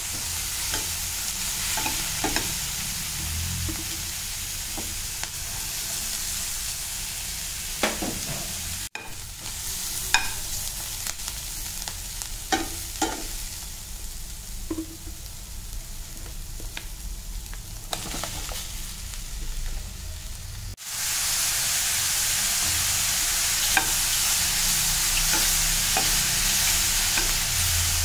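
Chopped onions, later joined by mushrooms, frying in oil in a pan: a steady sizzle with scattered scrapes and taps of a steel spatula stirring them. The sizzle is louder and fuller near the end.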